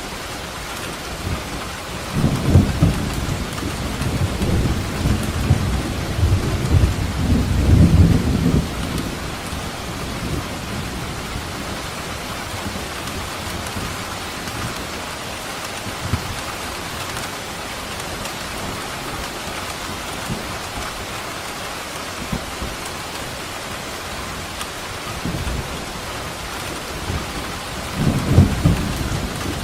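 Steady heavy rain with rolls of thunder: a long rumble from about two seconds in to about nine seconds, and another starting near the end.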